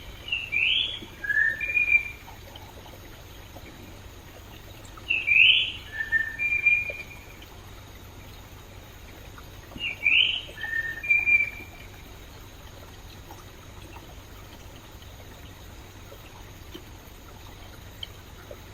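A songbird sings a short phrase of quick rising notes and short level whistles, three times about five seconds apart. A stream runs steadily beneath it.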